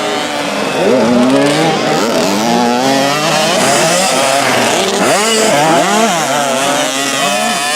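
Several 65cc two-stroke motocross bikes racing, their high-pitched engines revving up and down over one another as the riders work the throttles and shift.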